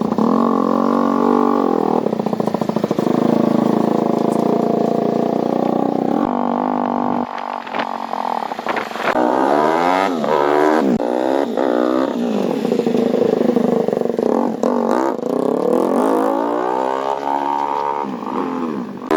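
Large-displacement motorcycle engine running, idling steadily at first and then revved repeatedly from about seven seconds in, its pitch rising and falling with each blip of the throttle.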